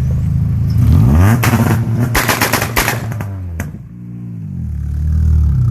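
A car engine revving hard: its pitch climbs about a second in, then a rapid string of sharp cracks comes from the exhaust for about a second. The revs then drop back to a lower running note, and the engine builds again near the end.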